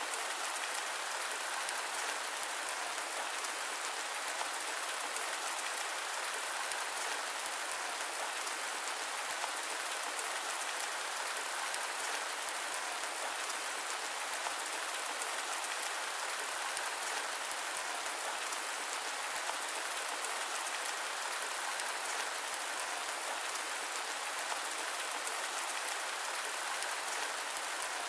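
Steady rain, an even hiss with no thunder or single drips standing out.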